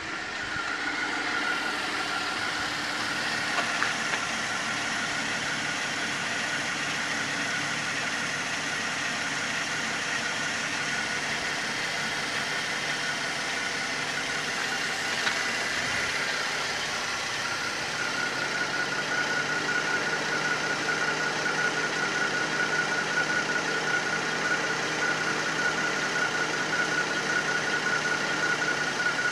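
Holden VE Commodore's 3.6-litre LLT V6 idling steadily, with a constant high-pitched whine over the engine note. The running gets a little louder and fuller about two-thirds of the way through.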